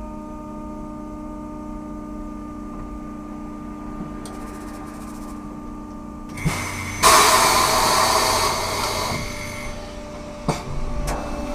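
Ikarus 280T trolleybus heard from on board: a steady electric whine of several held tones. About six and a half seconds in there is a thump, then a loud hiss for about two and a half seconds, and a sharp click near the end.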